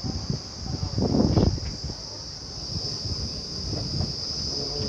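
Passenger train carriage rumbling and clattering in motion, with a steady high-pitched shrill over it and a louder swell of rumble about a second in.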